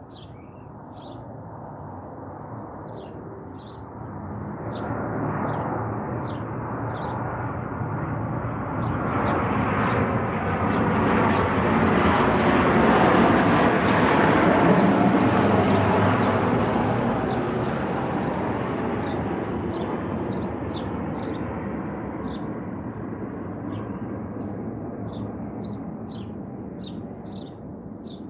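A vehicle passes: its noise swells slowly, peaks about halfway through, then fades away. Small birds chirp repeatedly over it.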